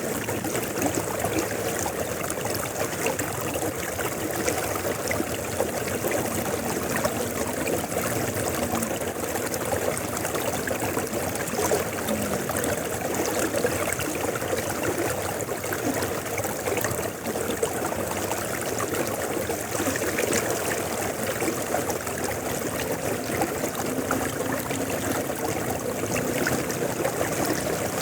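River water flowing steadily, a continuous even rush and trickle.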